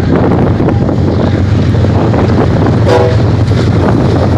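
Double-stack intermodal freight train rolling past, a loud steady rumble of wheels on rail mixed with wind buffeting the microphone. A brief pitched tone sounds about three seconds in.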